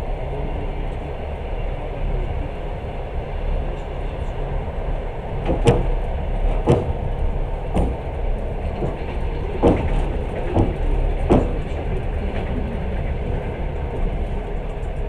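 Passenger train running, heard from inside the carriage as a steady low rumble. In the middle come about six sharp clacks of the wheels over rail joints, roughly one a second.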